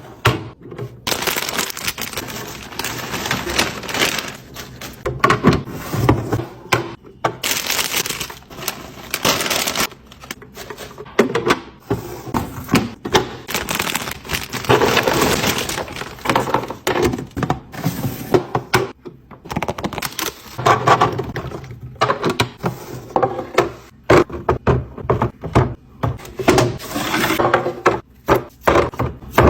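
A rapid, irregular run of clatters, knocks and rustles as food containers and packaging are handled, set down and moved about during a fridge clean-out and restock.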